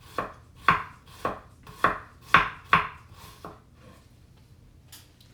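Knife chopping on a cutting board, about two strokes a second, stopping about three and a half seconds in.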